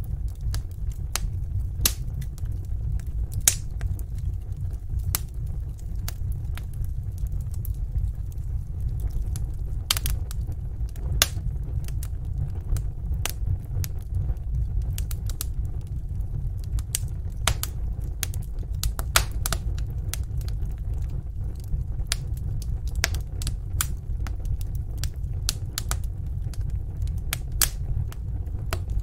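Wood fire crackling in a fireplace: a steady low rumble of burning, with irregular sharp pops and snaps.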